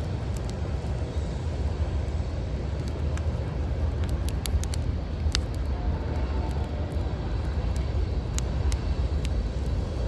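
Backyard wood fire crackling, with a few sharp pops about halfway through and again near the end, over a steady low rumble of city traffic.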